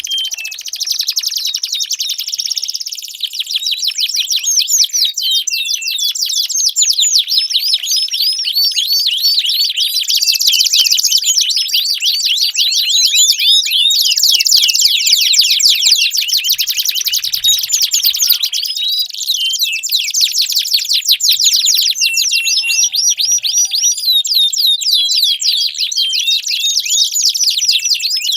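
Domestic canary singing a long, unbroken song of fast, high trills and rolls, each note repeated many times a second.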